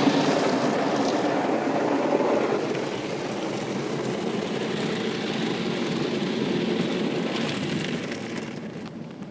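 Automatic car wash running on a car: a steady rush of water spray and machinery that fades away near the end.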